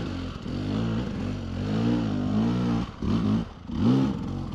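Dirt bike engine revving up and down over and over as the throttle is worked in short pulses on a steep, slow hill climb, with a brief drop in revs about three and a half seconds in.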